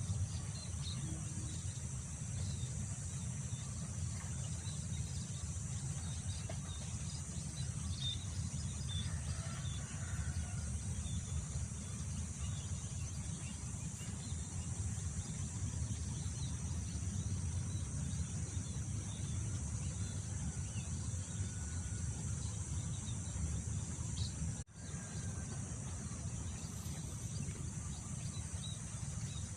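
Wind rumbling on the microphone over a steady high-pitched chorus of insects, with occasional faint bird chirps. The sound drops out for a split second about 25 seconds in.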